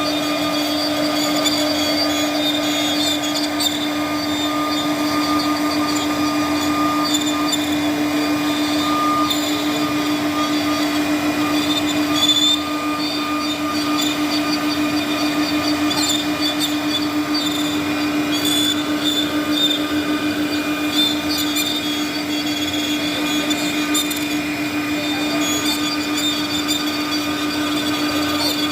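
CNC router spindle running steadily while it carves wood, a constant whine with faint scratchy cutting sounds over it.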